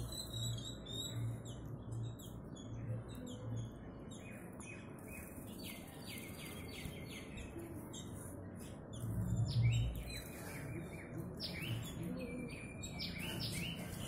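Small birds chirping over and over in short high notes, with a quick run of falling chirps about five seconds in. A brief low rumble comes about nine seconds in.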